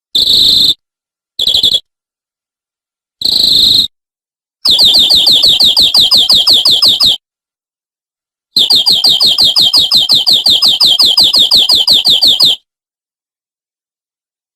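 Domestic canary singing: three short bursts of song, then two long, rapid trills of about eight repeated notes a second, and the song stops near the end.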